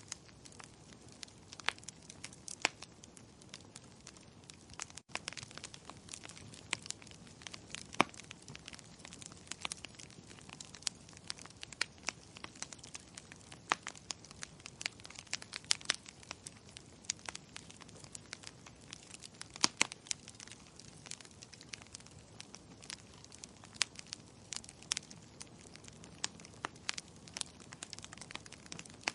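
Fire crackling in a fireplace: irregular sharp pops and snaps of varying strength over a soft steady hiss, which cuts out for an instant about five seconds in.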